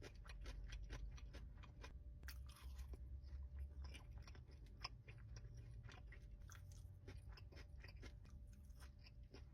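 Close-mic chewing of a bite of glazed fried chicken with a dried red chili: many soft wet clicks and faint crunches throughout.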